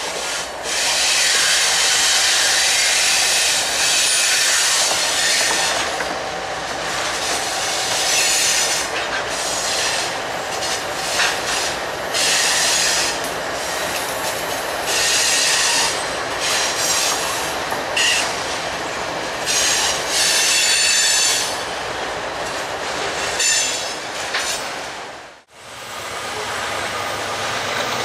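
Freight train passing, its wheels squealing in long, high-pitched stretches that come and go over the rumble and clatter of the rolling cars, until a sudden break near the end.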